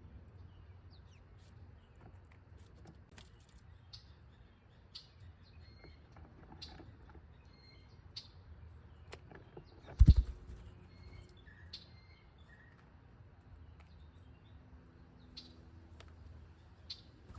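Small birds chirping at a feeder, short high chirps about once a second, with a few light clicks. A single loud thump about ten seconds in.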